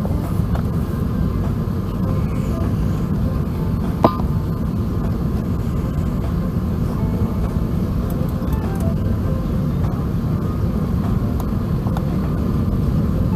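Steady low rumble of cabin noise inside an Airbus A380 airliner, with a single sharp click about four seconds in.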